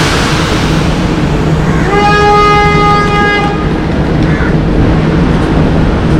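A train horn sounds one steady note for about a second and a half, over a steady low rumble.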